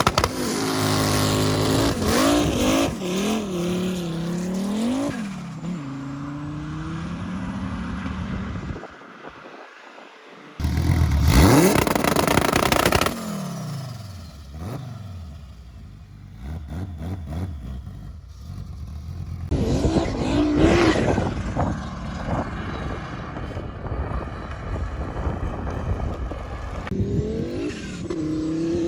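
Turbocharged five-cylinder Volvo drag-car engine revving and accelerating hard in several separate stretches, its pitch rising and falling through the gears. There are abrupt changes between stretches and a quieter lull about two thirds of the way through the first half.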